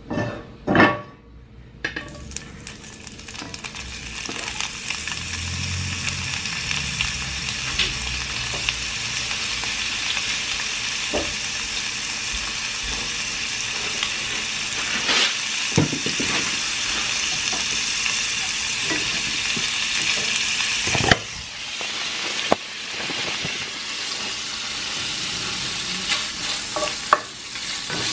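Cut-up kielbasa sausage frying in oil in a cast-iron skillet: a few knocks, then a steady sizzle starts about two seconds in as the pieces hit the hot pan. A spatula stirs with light scrapes and clicks, and a sharp knock against the pan comes about twenty seconds in.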